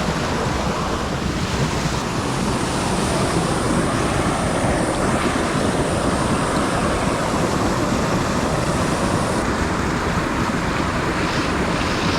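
Steady, loud rushing of creek water.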